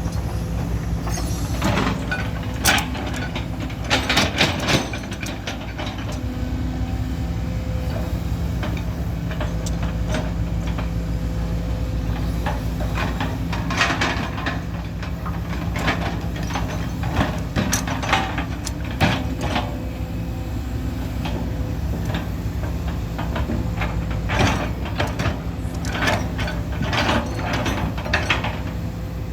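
Truck engine running with a steady low hum, with frequent knocks and rattles coming and going over it.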